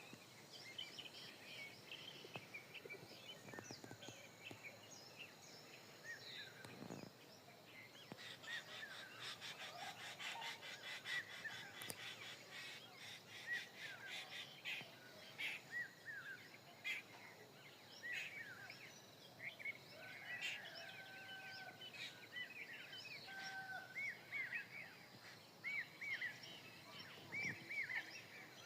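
Birds chirping and calling, many short overlapping chirps, with a dense run of rapid notes in the middle and repeated short arching calls near the end.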